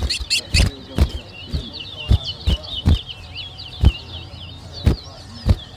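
Towa-towa finch singing a continuous run of quick, warbled high notes. Sharp knocks cut in about ten times, unevenly spaced.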